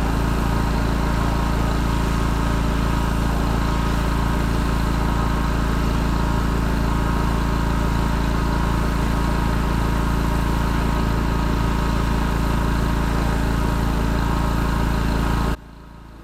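Engine-driven pressure washer running steadily for roof washing, a constant engine drone. It stops suddenly shortly before the end.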